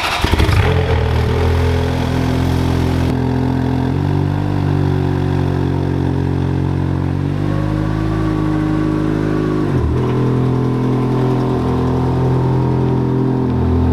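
Ferrari F430's V8 engine idling steadily just after being started. Its first seconds are harsher and louder, then it settles to an even idle about three seconds in.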